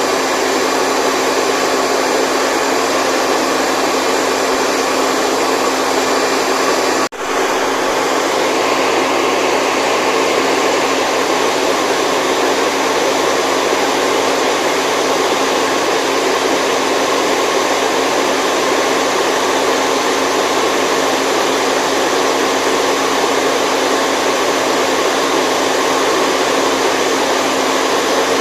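Steady, loud whooshing white noise with a faint steady hum in it, machine-like, as from a hair dryer. It drops out for a split second about seven seconds in, then carries on unchanged.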